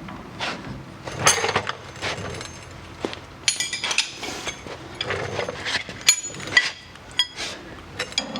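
Small steel hardware clinking and clicking as washers, spacers and a nut are handled and fitted onto a bolt. There are a dozen or so sharp metal-on-metal taps, a few of which ring briefly.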